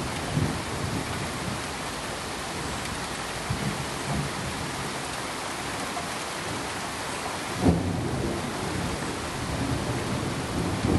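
Steady hissing noise with low rumbles that swell and fade. A sudden, louder rumble starts about three-quarters of the way through and carries on.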